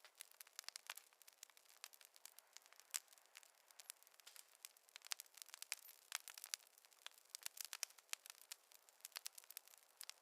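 Wood fire crackling faintly: irregular sharp pops and snaps at an uneven pace, some louder than others, with no low rumble beneath them.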